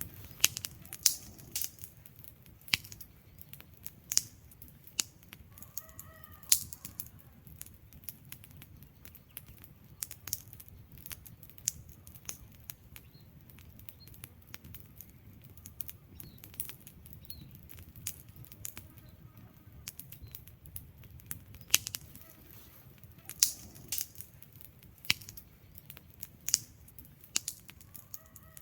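Wood fire burning in a fireplace: irregular sharp crackles and pops from the burning logs over a soft low rumble of the flames.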